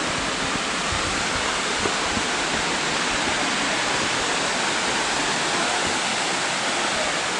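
Minnehaha Falls, a waterfall, rushing steadily as a constant, even roar of falling water.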